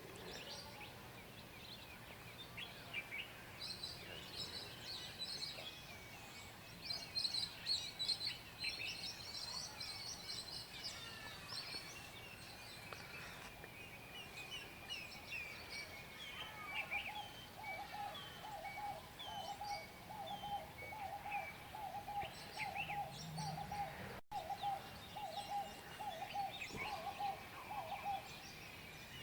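Wild birds calling and singing, a busy chorus of short high chirps and whistles that is densest in the first third. From just past the middle, a lower call repeats rapidly for about ten seconds.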